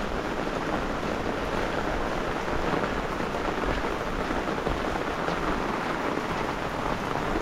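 Heavy rain pouring steadily, with a low rumble of strong wind underneath.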